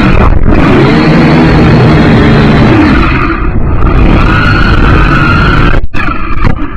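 Syma X5C quadcopter's small brushed motors and propellers whirring, their pitch shifting, under heavy wind noise. Near the end the sound breaks up in several short dropouts.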